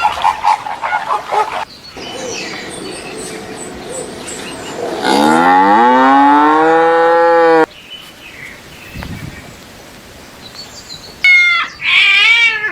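A cow mooing: one long, loud call of about two and a half seconds that rises in pitch and then holds. Near the end a cat meows twice, high-pitched.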